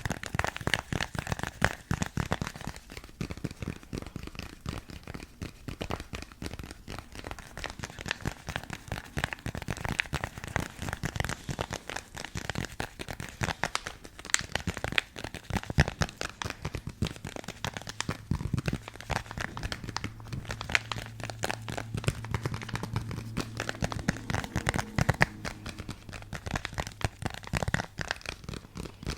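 Fast ASMR fingernail tapping on an object, a dense run of many light taps and clicks a second with a crinkly edge.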